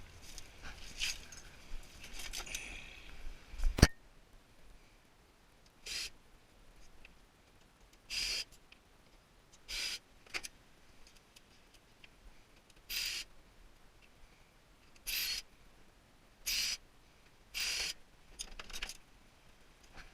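Hand-tool work on a tankless water heater being taken apart for scrap: clattering with one sharp metal knock about four seconds in, then a string of short scraping squeaks every second or two.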